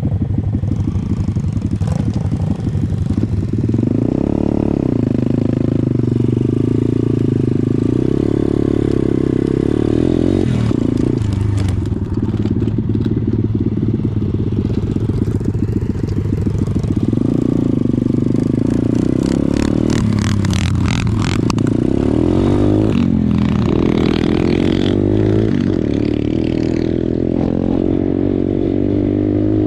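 Pit bike engine running as the bike is ridden, its pitch rising and falling with the throttle through several revs, with some rattling about two-thirds of the way through.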